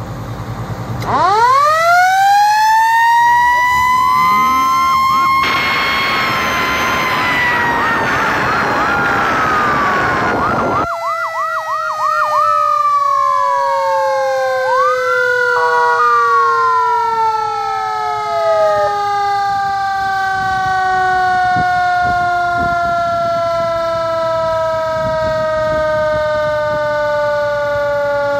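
Federal Signal Q-Siren on a fire truck winding up to a high wail about a second in, with a loud rushing hiss over it for several seconds, then coasting down in one long slowly falling tone. Electronic siren sweeps, a wail and a fast yelp, from a Federal Signal PA-300 run over it in the middle.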